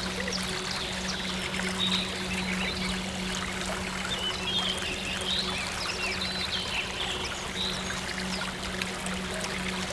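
Running stream water with small birds chirping in short, scattered calls, over a soft, steady synth drone.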